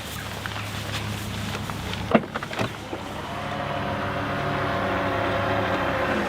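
A motor running with a steady hum, its pitch sliding down near the end as it slows, with two sharp knocks about two seconds in.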